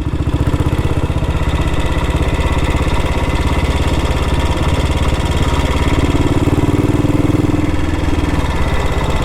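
1962 Matchless G80CS's single-cylinder four-stroke engine running steadily on the move, its exhaust a fast, even beat.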